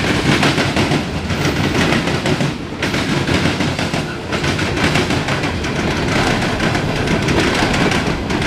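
Freight cars rolling past: steel wheels running on the rails with a loud, steady rumble and rapid clacking over the rail joints.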